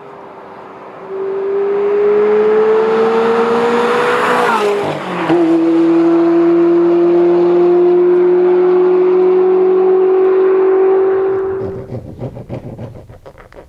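Ferrari sports car approaching at speed and passing by: its engine note climbs as it nears, drops sharply as it passes about five seconds in, then holds steady as it pulls away and fades. Near the end comes a short run of clicks and scrapes from hand-tool work on a pressboard door panel.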